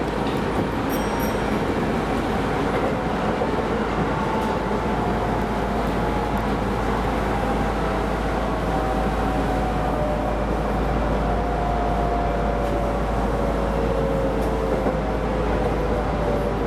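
Keisei Line electric train running, heard from the front of the train: a steady rumble of wheels on track, with a motor whine of several tones that slowly falls in pitch as the train slows.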